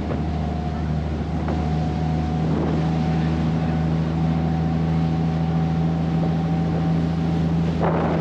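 Boat engine running at a steady speed, a constant low hum with wind buffeting the microphone.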